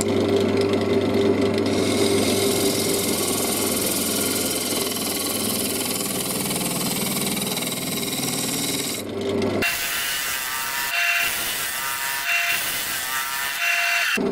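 Wood lathe running, with a turning tool cutting into a spinning workpiece: a steady motor hum under a continuous cutting hiss. About two-thirds of the way in the sound changes abruptly to a higher steady tone, with cutting that starts and stops.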